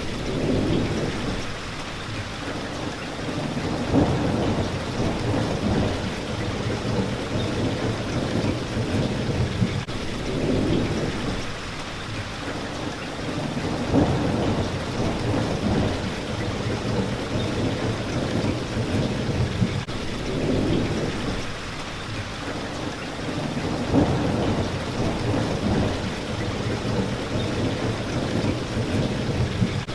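Steady rain hitting a window pane, with low rumbles of thunder that swell and fade every few seconds and a few sharper cracks among them.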